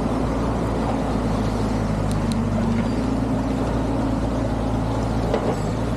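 Excavator's diesel engine running steadily, with a couple of faint clicks about two seconds in.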